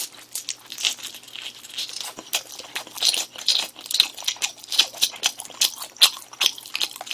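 Chewing close to the microphone: an irregular run of small crunching clicks, several a second.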